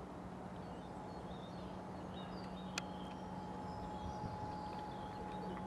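Faint outdoor ambience: birds chirping intermittently over a steady low hum, with one sharp click about three seconds in.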